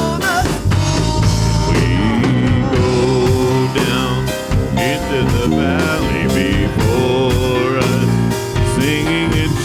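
Worship band playing a song with a drum kit and other instruments, in an instrumental stretch between sung lines.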